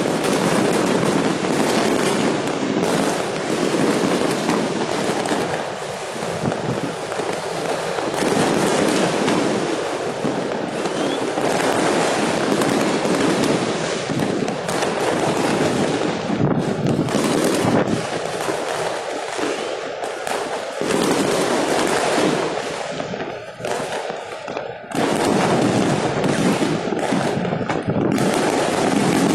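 Many fireworks going off at once: dense, overlapping bangs and crackling, with a short lull about three quarters of the way through.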